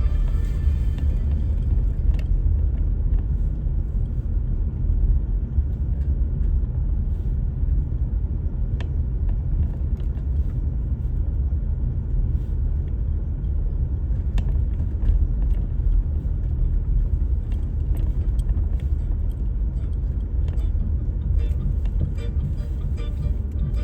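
Car driving: a steady low rumble of engine and road noise, with a few faint clicks scattered through it.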